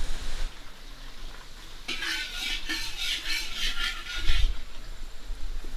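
Kitchen utensil stirring and scraping in a bowl: a run of quick, even scraping strokes, about three or four a second, lasting some two and a half seconds, with a dull knock near the end.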